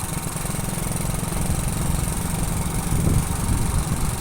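Motorcycle engine running steadily on the move, a rapid low pulse under an even rush of wind and road noise.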